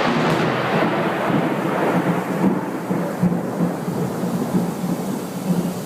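Thunder rumbling just after a lightning strike, over steady rain; the rumble slowly fades.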